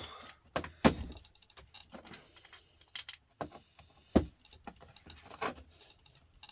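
Copper pipe being cut and handled: irregular metallic clicks and knocks, two of them sharper and louder, with faint scraping between.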